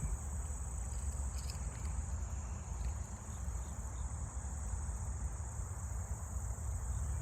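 Steady high-pitched chorus of insects, like crickets, over a low outdoor rumble.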